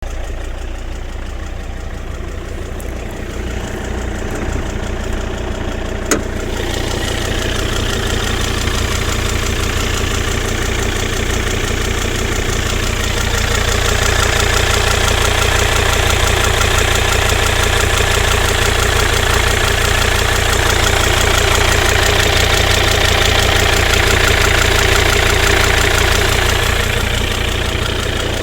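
Volvo XC90 D5's diesel engine running with a noise the owner finds strange. There is a click about six seconds in. After it a higher-pitched noise comes in over the engine, grows louder through the middle and eases off near the end.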